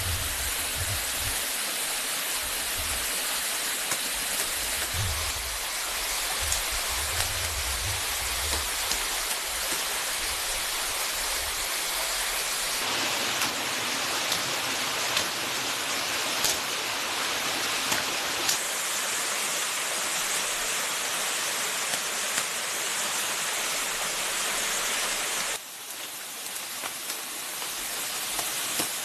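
Steady hiss of a forest stream's running water, with scattered light clicks and some low rumbling in the first part. The water sound changes abruptly twice, once near the middle and again near the end.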